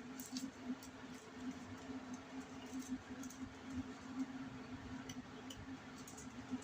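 Sharp knife cutting the meat away from a whole chicken's backbone and rib bones: faint scattered clicks over a steady low hum.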